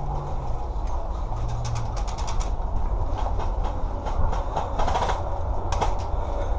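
Steady low rumble of wind and movement noise on a worn camera's microphone, with a quick run of rapid sharp clicks about two seconds in and a few louder cracks near the end, like airsoft guns firing in bursts.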